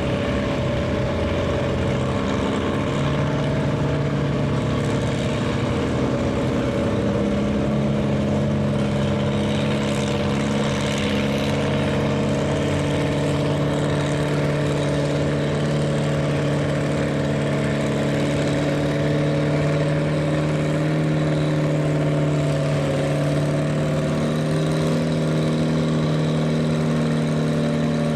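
Farm stock pulling tractor's engine running steadily and loudly, its pitch stepping slightly a few times.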